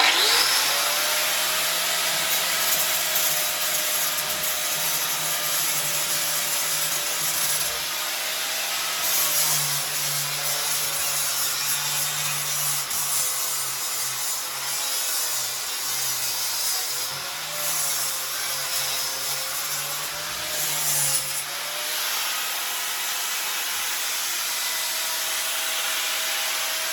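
Angle grinder running continuously, grinding welds flush and flat on a steel pit bike frame. It starts abruptly with a steady whine over a wide hiss, and the pitch dips and wavers a little in the middle as the disc is pressed into the metal.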